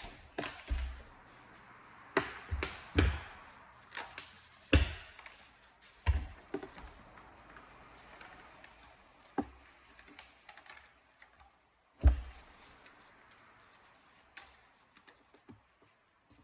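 Irregular sharp knocks and clacks of hard objects being handled and set down, about a dozen over the span, with quiet gaps between. The loudest come in a cluster in the first five seconds and once more about twelve seconds in.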